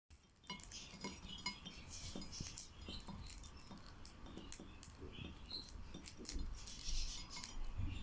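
Budgerigar eating crumbs: its beak making quick, irregular clicks and taps, with short, soft high chirps in between.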